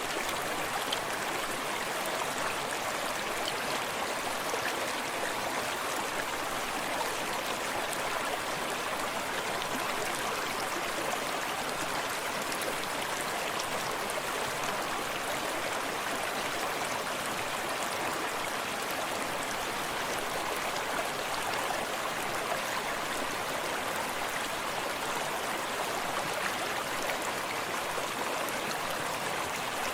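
A forest creek running steadily, a continuous rushing and splashing of water with fine, close-up lapping over it.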